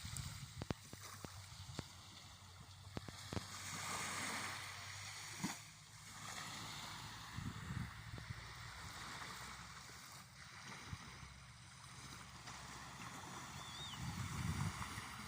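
Small sea waves lapping and sloshing in shallow water, swelling and fading every few seconds, with a few light clicks near the start.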